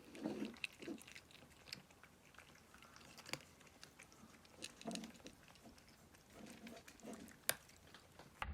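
A cat eating dry kibble: irregular crunching and chewing, with small clicks of the food pieces, and one sharper click near the end.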